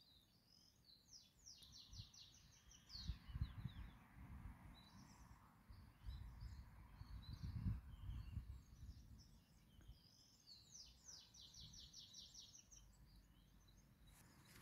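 A small songbird sings twice, faintly, each song a few high notes running into a quick trill of repeated notes. Between the two songs there is a low rumble on the microphone.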